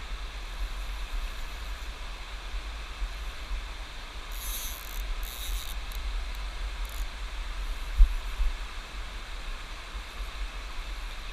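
Steady rush of river water with a low rumble of wind on the microphone, a couple of brief high hissing bursts about midway, and a single dull thump later on.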